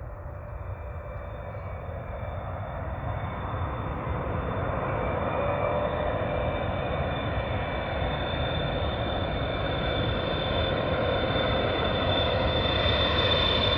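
Boeing 777 on its landing approach, its twin GE90 turbofans running with a steady high whine over a rumble, growing steadily louder as the airliner comes nearer.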